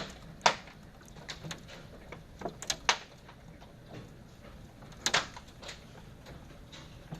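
Irregular knocks and clicks, some sharp and some soft, scattered a second or so apart over a faint steady background, the loudest near the start and about five seconds in.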